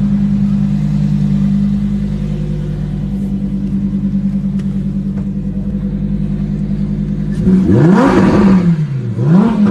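High-performance car engine idling steadily, then revved twice near the end, its pitch rising and falling with each blip of the throttle.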